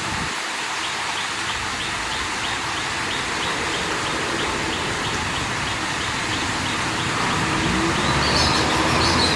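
Water flowing steadily out of a small lake, a continuous rushing hiss, with a high chirp repeating about three times a second through most of it. Near the end the sound swells louder and deeper, and a few higher chirps come in.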